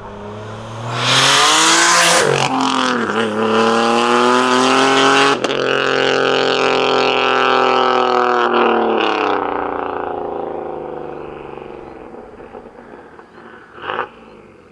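Turbocharged 3.7-litre V6 of a single-turbo Nissan 370Z Nismo accelerating hard, its pitch climbing with brief breaks as it shifts up, then holding high before fading away. Two short bursts of noise come near the end.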